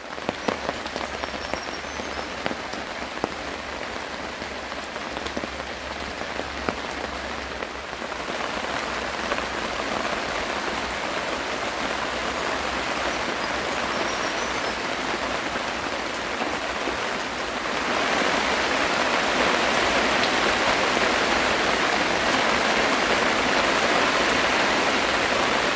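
Rain falling steadily, with scattered drops ticking on a surface. It gets louder about eight seconds in and again near eighteen seconds, heaviest near the end.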